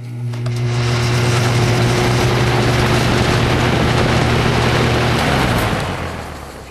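Toastmaster box fan switched on: the motor gives a strong steady electrical hum and the rush of air from the blades builds over the first second. About five seconds in the hum cuts out and the air rush fades as the blades spin down.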